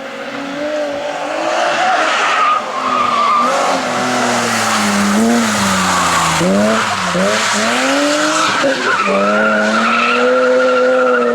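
Rally car engine at high revs growing louder over the first two seconds. Its pitch repeatedly drops and climbs in the middle as the driver lifts, shifts and gets back on the throttle, then holds steady. Tyre noise runs underneath.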